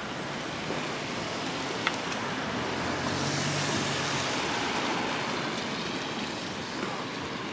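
A car driving past on a rain-wet street: its engine and tyre hiss swell near the middle and fade away, over a steady background hiss.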